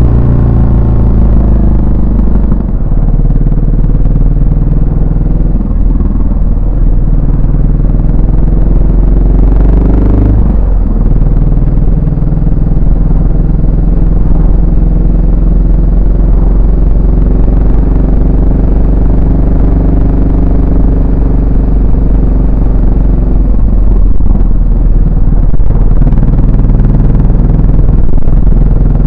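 Yamaha SR400's air-cooled single-cylinder engine and exhaust while riding. The revs fall over the first few seconds, climb again and drop sharply about ten seconds in, then hold a steady cruising beat.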